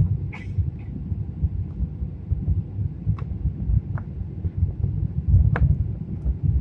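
Deep rumble of an airliner cabin in flight: engine and airflow noise, uneven and low, with a few faint clicks about half a second, three, four and five and a half seconds in.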